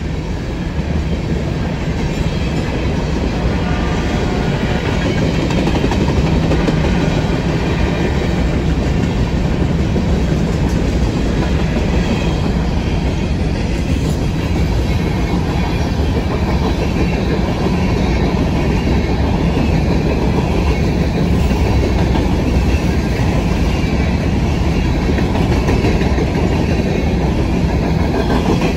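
Covered hopper cars of a freight train rolling past at a steady pace, steel wheels running on the rails in a continuous loud rumble.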